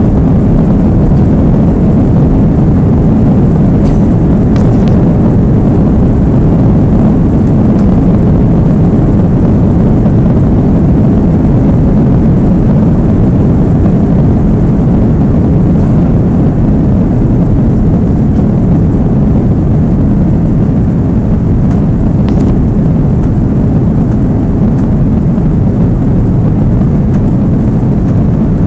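Airbus A330's jet engines and rushing air heard from inside the passenger cabin: a loud, steady low rumble during the takeoff and climb, with a couple of faint clicks.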